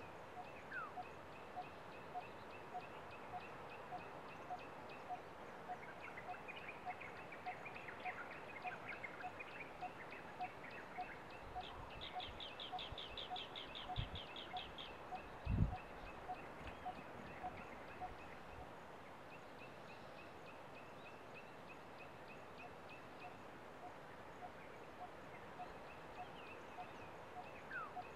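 Forest birds calling: one bird repeats a short, even note a little under twice a second throughout, over higher chirping and a rapid trill about halfway through. A low thump, the loudest sound, comes just after the trill.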